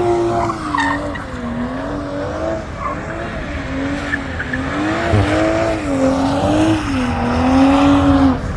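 A drift car sliding with its engine note rising and falling as the throttle is worked, over tyre squeal and skidding. The engine tone drops away shortly before the end.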